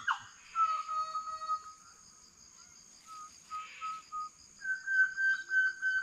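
Birds calling in clear whistled notes: one long held note, then a few short notes, then a quick run of repeated higher notes near the end, over a steady high-pitched drone.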